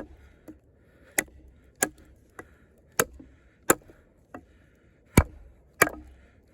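Sharp blows of a heavy fixed-blade combat knife chopping into a pressure-treated log: a steady run of strikes about one a second, with a few lighter hits between them.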